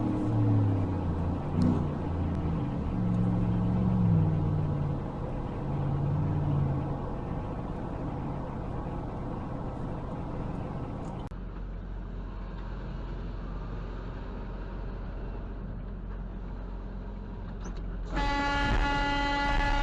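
Road and engine noise of cars in traffic, the engine's pitch shifting in the first few seconds. Near the end a car horn sounds in one long, steady blast.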